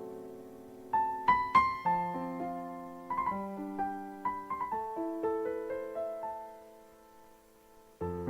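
Slow, soft piano music: a held chord dies away, then single notes are struck one after another and fade out, and a new chord comes in near the end.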